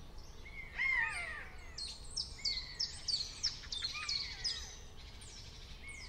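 Birds singing: a couple of falling whistled notes about a second in, then a quick series of short, high, falling chirps, about three a second, fading out near the end.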